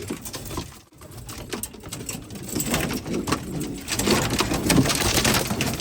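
Domestic pigeons cooing, with a noisy scuffle of movement through the second half.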